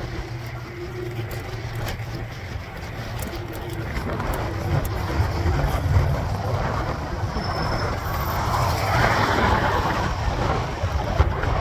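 Wind rumbling on the microphone and road noise while cycling in city traffic, with a motor vehicle's noise swelling and passing, loudest about nine seconds in.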